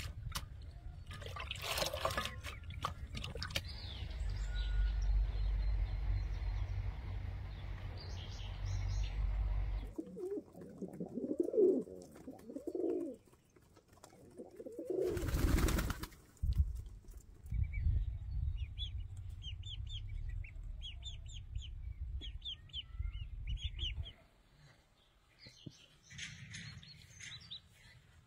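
Birds calling outdoors, with a run of quick short chirps in the second half. A low rumble fills the first part, and a loud brief burst of noise comes about halfway through.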